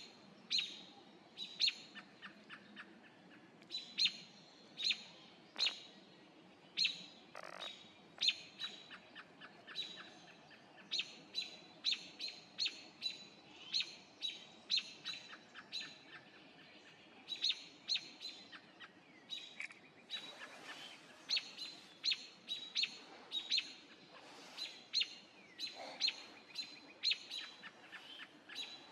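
A bird's short, sharp chirping call notes, repeated steadily about one or two a second with a brief pause past the middle.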